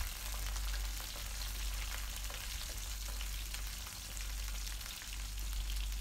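Shallots, garlic and curry leaves frying in sesame oil in a metal kadai, stirred with a wooden spatula: a steady sizzling hiss with scattered small crackles.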